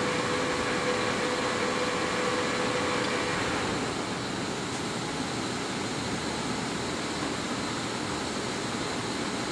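Large engine lathe (Poreba TPK-80/5M) running under power with its spindle turning in reverse, a steady machine hum from the motor and gearhead. A steady whine stops about three and a half seconds in, and the running sound gets slightly quieter.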